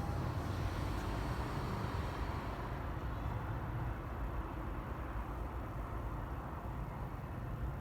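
Steady low vehicle rumble with a haze of noise, easing slightly after about three seconds.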